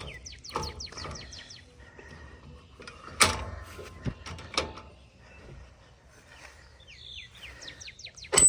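Sharp metallic clanks from a boat trailer's hitch coupler being worked onto the tow ball. The loudest comes about three seconds in and another near the end. Small birds chirp in quick runs of short high notes at the start and again near the end.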